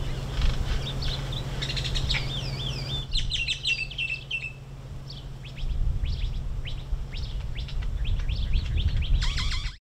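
Several songbirds chirping and calling over a steady low rumble. The calls change abruptly about three seconds in, and the rumble grows louder past the middle.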